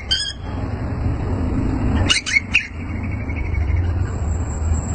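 Greater green leafbird (cucak ijo) giving a brief cluster of short, sharp high calls about two seconds in, over a steady low rumbling background noise.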